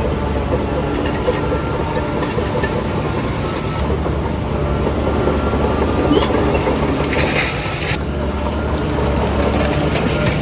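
Shantui DH17C3 bulldozer's diesel engine running steadily under work, with clatter over the engine's hum and a short burst of hiss about seven seconds in.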